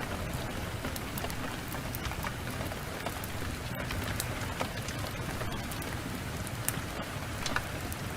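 Heavy rain falling steadily, with scattered sharp ticks and pops throughout.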